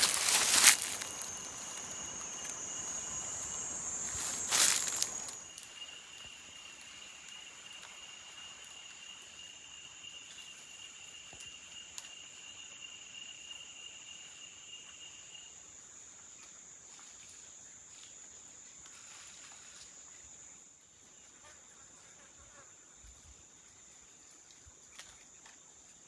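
Loud rustling and crinkling for the first five seconds or so, then insects calling: a steady high-pitched shrill and a lower steady one that stops about halfway through.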